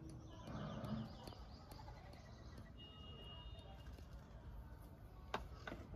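Quiet background with faint bird calls, and two light clicks near the end.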